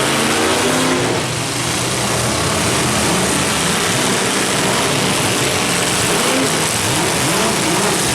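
Derby trucks' engines revving, their pitch rising and falling over and over, several running at once over a steady wash of noise.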